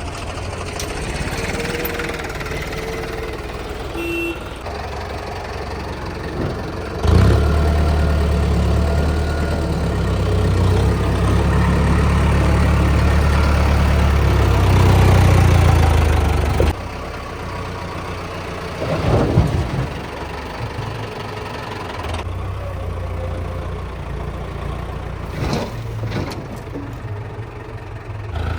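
Tractor diesel engine running, growing louder and heavier from about seven seconds in, as under load, then dropping back to a lower steady run after about sixteen seconds. A few short thumps come later.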